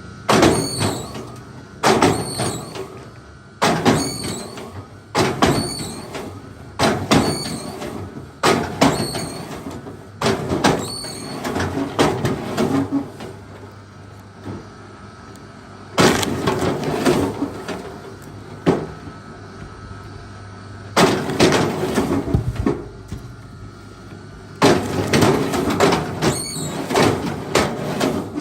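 Heavy blows striking a large log, one every second or two, each with a short sharp ring. The blows pause for a few seconds midway, then resume.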